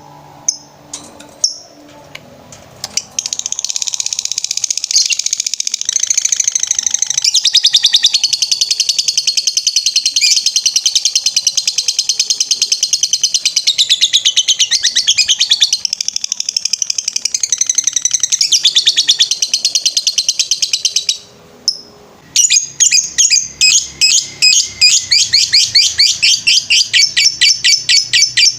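Lovebird singing in 'ngetrek' style: a few high chirps, then a long, unbroken run of very rapid high chirping that stops abruptly after about twenty seconds and, after a short pause, starts again as a fast series of separate chirps.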